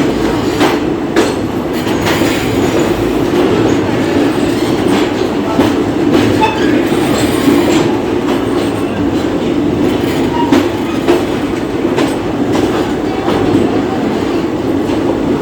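Ajmer–Durg Express passenger train running at speed: a loud steady rumble with the wheels clicking irregularly over rail joints.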